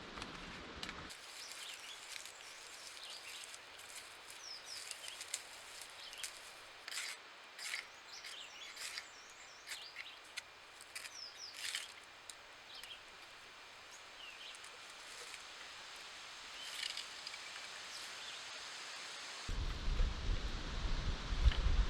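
Wild birds singing in short chirps and trills over a quiet outdoor background, with a low rumble setting in near the end.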